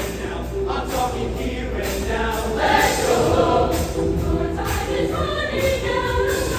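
Show choir singing together over accompanying music with a steady beat.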